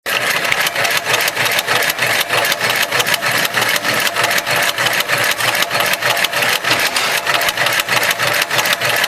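Heavy-duty automatic rope sewing machine running, stitching with a fast, even clatter of several strokes a second.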